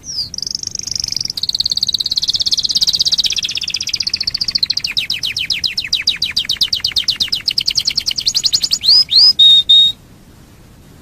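Domestic canary singing one long trill of rapid repeated notes that gradually slow and drop in pitch, ending with a few loud whistled notes and stopping about a second before the end.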